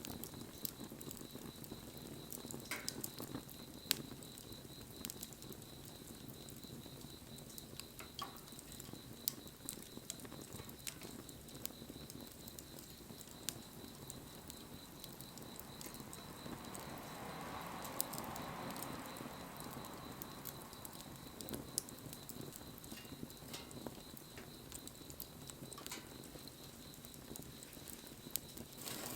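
Wood fire burning, crackling with scattered sharp pops and snaps. About two-thirds of the way through, a soft hiss swells and fades.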